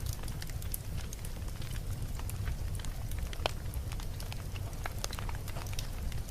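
Wood campfire burning, with frequent irregular crackles and pops over a steady low rumble of the flames; one pop, about three and a half seconds in, stands out as the loudest.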